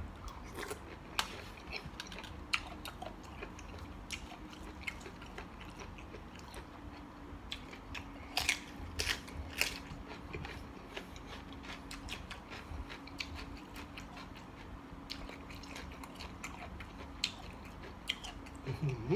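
A person chewing and biting into spicy mixed seafood salad close to the microphone: moist chewing with scattered crisp clicks and crunches, a few louder ones around the middle and near the end. A faint steady hum runs underneath.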